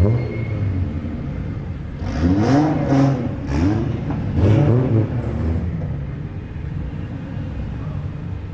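Car engines running at low revs as cars roll in, with a few short rising and falling rev glides in the middle.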